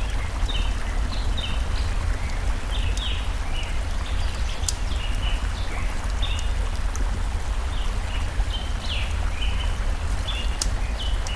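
Birds chirping in quick, short, repeated calls over the steady rush of stream water, with a few sharp crackles from a wood fire.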